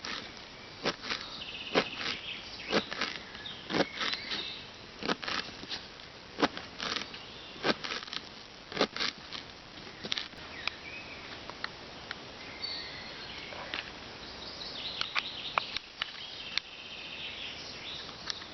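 Irregular light clicks and taps from handling the food and cooking gear while sprinkling on chopped dill and parsley, with birds chirping in the background.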